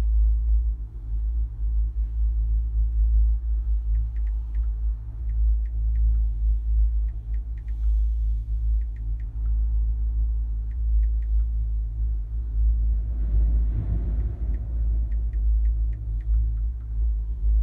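Strong wind buffeting the microphone in a heavy, fluctuating low rumble, with faint short high squeaks in small clusters now and then and a louder rush of noise about thirteen seconds in.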